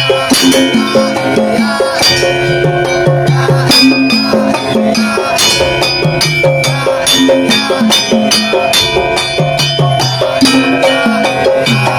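Live daul (tongtong) percussion ensemble playing: rapid drum and shaker strokes over a repeating melody on pitched percussion.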